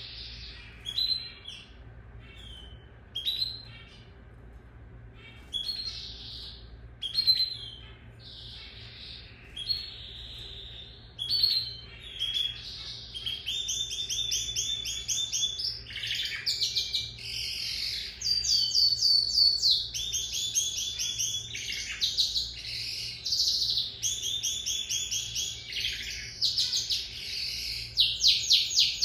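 Lizard canary singing: short scattered chirps and phrases at first, then from about halfway a loud, almost unbroken song of fast, rapidly repeated trills.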